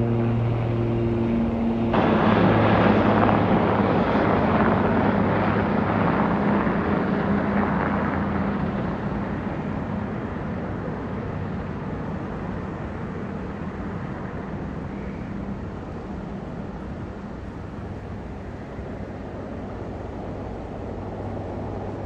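Firefighting aircraft engine droning with a steady low hum. About two seconds in, a sudden louder rushing noise joins it and then fades away gradually over the next ten seconds.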